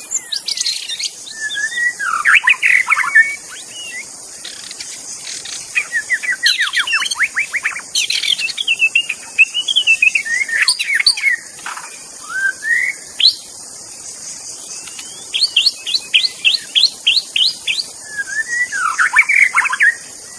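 White-rumped shama singing varied whistled and warbled phrases separated by short pauses, including a quick run of about eight repeated notes about three quarters of the way through. A steady high insect buzz continues underneath.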